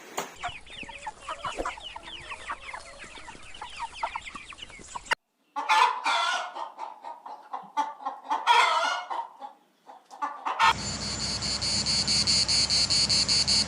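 Chickens clucking and calling in separate bursts, after a stretch of many rapid high chirps. From about eleven seconds in, insects chirp in a steady fast pulse.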